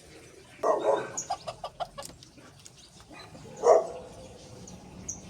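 A chicken clucking: a loud call, then a quick run of short clucks, and another loud call a little before four seconds in.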